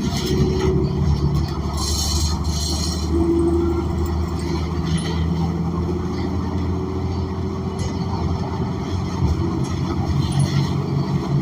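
Inside a moving New Flyer XN40 bus: steady drone of its Cummins Westport ISL G natural-gas engine and drivetrain, with a brief hiss about two seconds in and scattered light rattles.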